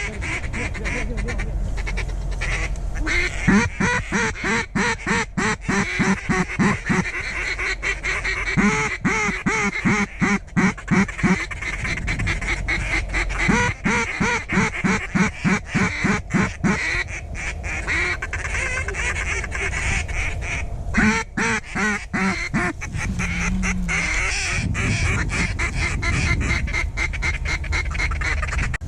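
Mallard-style quacking: runs of quick, evenly spaced quacks, several a second, repeated in bursts, over a steady hiss.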